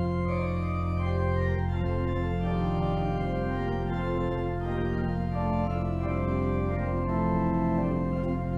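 Organ playing slow sustained chords over a held low pedal note that comes in at the start.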